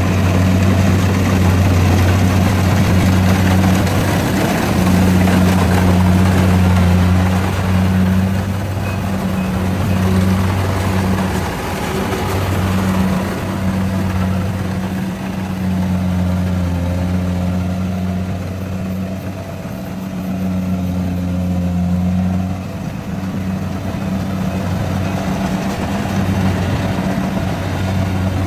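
Rice combine harvester's engine running steadily under load, a low hum that swells and eases a little as it works.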